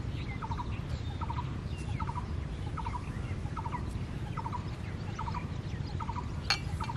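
A bird calling over and over, one short call at an even pace about every second, over a steady low rumble, with a single sharp click near the end.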